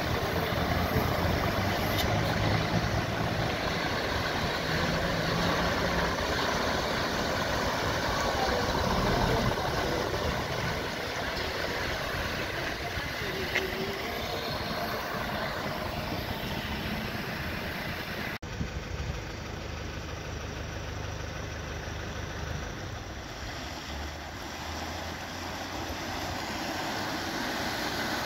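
Motor vehicle engines running at low revs, a steady low hum under an even rushing noise. The sound cuts off abruptly about 18 seconds in and carries on a little quieter.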